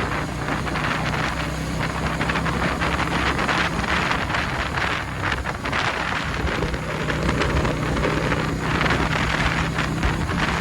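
Motorcycle engine running at a steady pace while riding, with wind buffeting the phone's microphone in uneven gusts.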